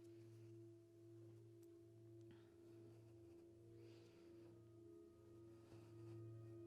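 Faint ambient background music: a steady, held drone of a few sustained tones.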